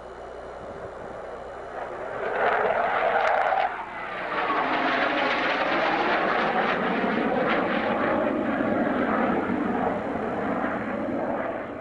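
Military fighter jet (F-15 or F-4) passing close by after take-off. The jet noise swells about two seconds in, dips for a moment, then stays very loud with a sweeping, phasing whoosh before fading near the end.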